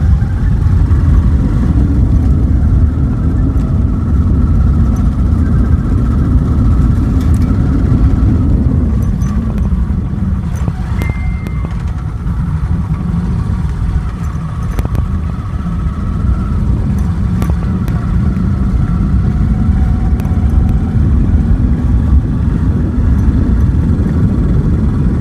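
Motor vehicle on the move: a steady, loud low rumble of engine and road noise, with a short high beep about eleven seconds in.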